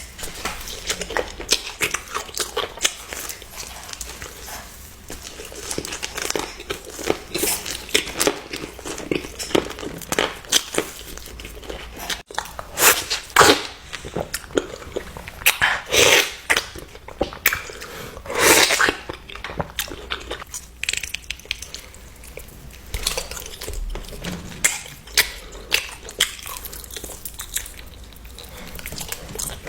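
A person biting and chewing crunchy food close to the microphone: a steady run of crunches, with louder bites about thirteen, sixteen and eighteen seconds in.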